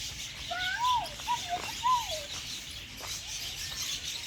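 Birds calling in an aviary. Several clear whistled notes rise and fall about a second in, over the steady high chirping of many small birds.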